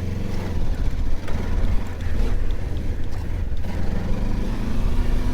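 Mutt Stravaig motorcycle's single-cylinder engine running as the bike climbs a dirt trail, a choppy low rumble with the engine note rising from about four seconds in.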